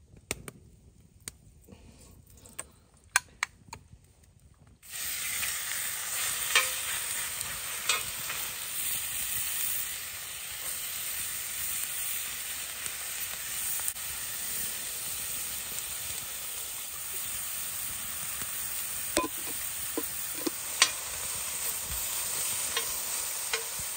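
Chicken and sliced peppers frying on an oiled griddle plate over a campfire. After a few light clicks, a loud sizzle starts suddenly about five seconds in as the food goes onto the hot plate, and it keeps going steadily with occasional clicks and taps.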